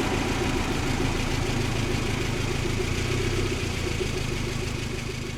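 Toyota Starlet Glanza V's turbocharged 1.3-litre four-cylinder engine running steadily at low revs with an even pulsing, slowly fading toward the end.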